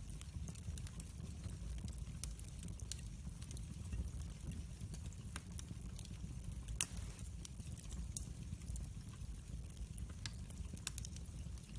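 Wood fire burning with a steady low rumble and scattered crackles, one louder pop about seven seconds in.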